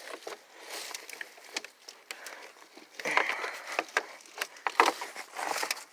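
Scattered clicks, knocks and short scrapes of a rusty microwave door being wrenched and bent by hand at its hinges, with a few sharper knocks about three seconds in and near the end.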